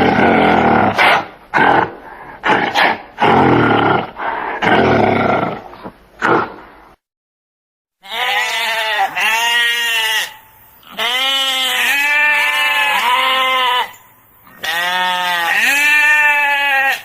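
Animal calls: first a run of loud, rough cries, then after a sudden break, about four long pitched calls that rise and fall in pitch.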